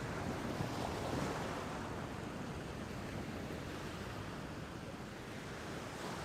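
Sea waves washing, a steady rushing noise that swells a little in the first second or so.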